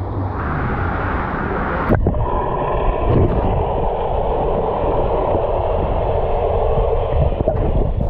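Fast-moving river water rushing and churning close to the microphone, a loud continuous wash with a brief break about two seconds in, as a rider is carried along a fast current.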